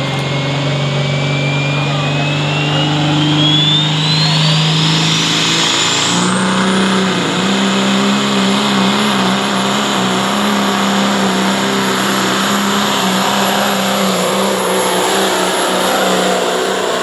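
Pro Stock diesel semi truck under full power pulling the sled. The turbocharger whistle climbs steadily in pitch over the first seven seconds, then holds high, while the engine note steps up slightly and runs on hard.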